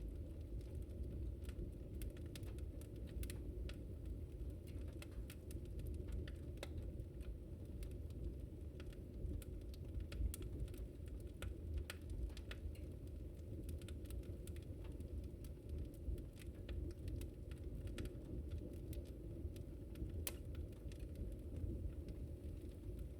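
Wood fire burning with a steady low rumble of flames and frequent irregular sharp crackles and pops.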